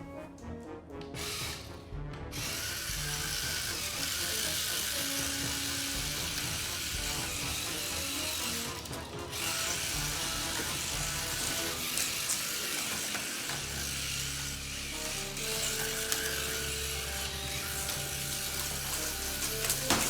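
Small geared motor running with a steady clicking whir, over background music.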